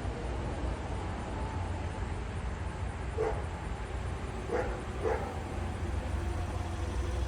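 A dog barks three times: once about three seconds in, then twice in quick succession around four and a half and five seconds. The barks sit over a steady low rumble.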